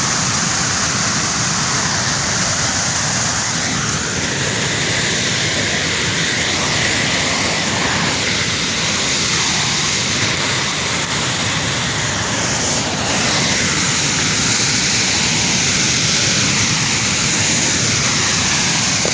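Waterfall: a loud, steady rush of falling water close by, with no breaks.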